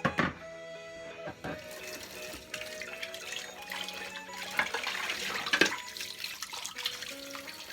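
Kitchen tap running water into a sink, with a few sharp knocks of items handled in it, over background music.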